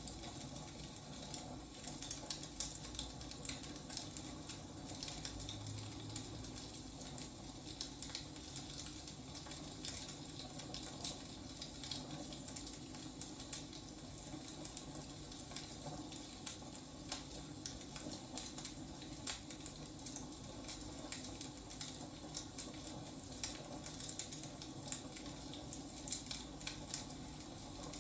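Wood fire crackling: irregular snaps and pops over a steady low hiss of burning logs.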